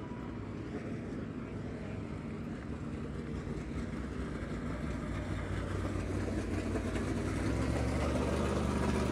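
Race car engine running at low speed over a steady track haze, growing louder near the end.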